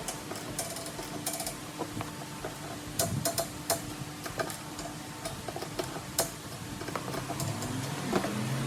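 Irregular light clicks and taps of hand tools on car parts, with a cluster of them a few seconds in, over a steady low hum.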